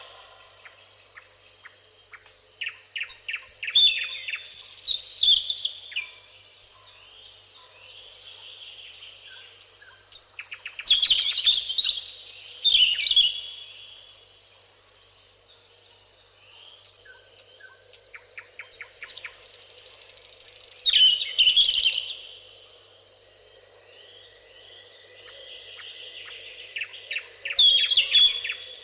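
Several songbirds singing and chirping together, with loud song phrases coming back every few seconds over a steady, thin high tone.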